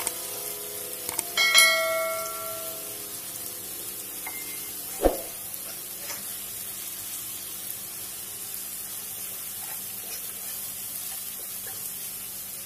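Sliced onions and whole spices frying in oil in a nonstick pan: a steady sizzle while a spatula stirs them, with one sharp knock about five seconds in. Near the start, a bright bell-like chime rings out and fades over about a second.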